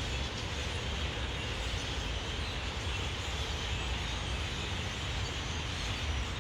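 Steady din of a huge flock of birds calling all at once from the trees, so many voices that they blend into one dense, unbroken chatter, over a low rumble.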